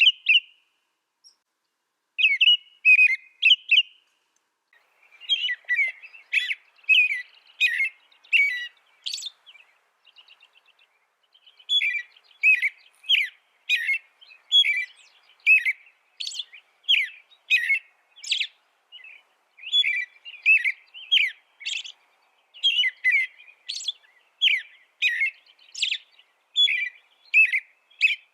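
A songbird singing: a long run of sharp, quick chirping notes, broken by a short pause about four seconds in and a brief fine trill near ten seconds.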